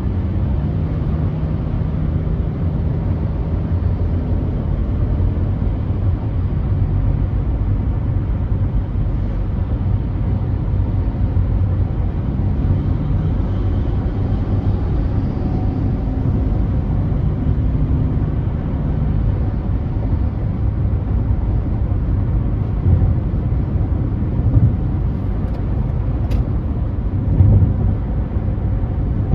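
Car driving at freeway speed: a steady low rumble of tyres and road with a faint engine hum.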